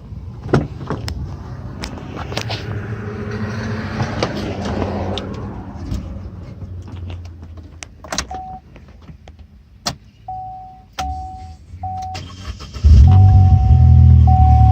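Clicks and handling noises, then a dashboard warning chime pulsing at one steady pitch. About 13 s in the 2012 Chevy Sonic's 1.4-litre turbo four starts and idles loudly through its DNA Motorsports resonator-delete exhaust, with the chime still sounding.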